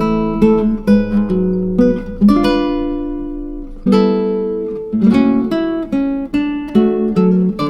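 Background music on acoustic guitar: plucked notes and strummed chords that ring and fade, in a steady unhurried rhythm.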